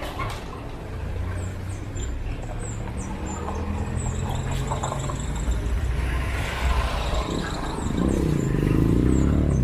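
Street traffic: vehicle engines running steadily, with short high chirps through the middle. Near the end an engine grows louder, its pitch rising and falling.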